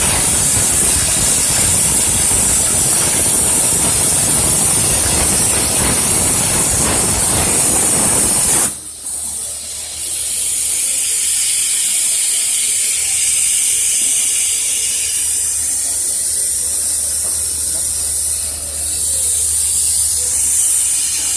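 Cutting torch on a CNC profile cutting machine giving a loud, steady hiss that stops abruptly about nine seconds in. After that a fainter high hiss and a low steady hum carry on.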